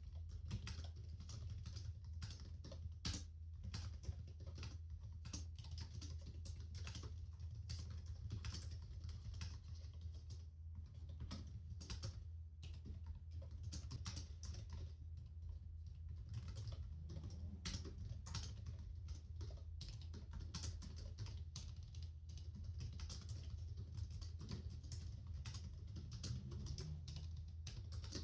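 Continuous typing on a laptop keyboard: a dense, irregular stream of soft key clicks, over a steady low hum.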